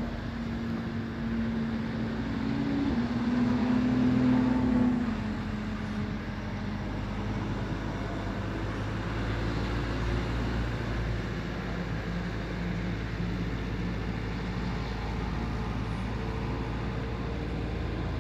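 Cars running on a motor-racing circuit. One engine note climbs and is loudest about four seconds in as a car accelerates past. A steadier, lower engine drone then carries on, and another note starts rising near the end.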